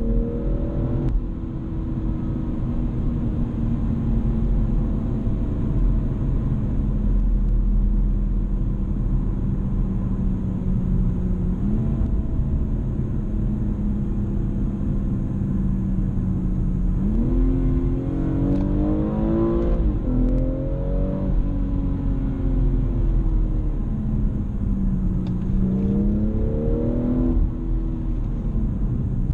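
BMW M240i's 3.0-litre turbocharged straight-six heard from inside the cabin. The engine runs at a steady note for a long stretch, then its pitch climbs in several short pulls, each cut off by a sudden drop. A constant low road and tyre rumble runs underneath.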